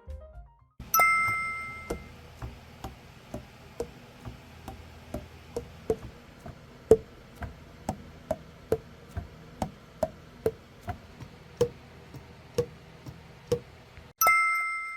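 A bright chime, then a steady run of light knocks about two a second, each with a short pitched pop, and a second chime near the end.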